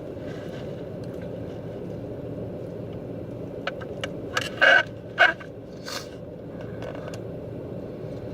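Steady low hum inside a car cabin, with a few short crinkling and crackling noises from a food wrapper being handled in the middle, the loudest two about four and a half and five seconds in.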